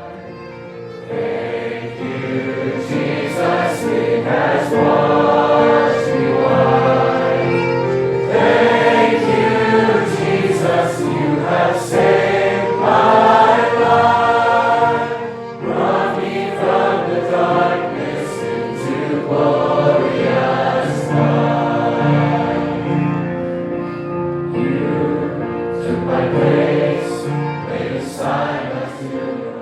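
Choral music: a choir singing, with a brief drop about halfway through.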